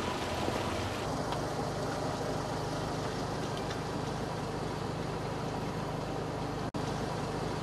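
A car engine idling: a steady low hum with road and wind noise, heard from inside the car, cutting out for an instant about two-thirds through.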